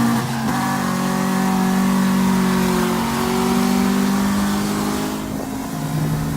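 Car engine accelerating hard through the gears: its pitch climbs steadily, drops at an upshift about a third of a second in, climbs again and drops at another shift near the end.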